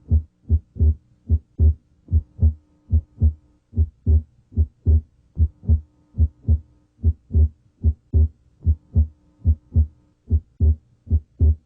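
Human heart sounds heard through a stethoscope's diaphragm at the left sternal border, third interspace: a steady, regular rhythm of paired lub-dub beats (S1 and S2). The second sound is split, abnormally wide, coming and going with deep breathing.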